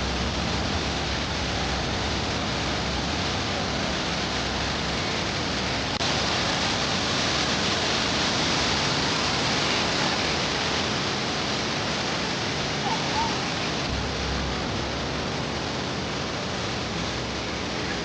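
Steady rushing noise, like falling or running water, a little brighter about six seconds in, with faint voices underneath.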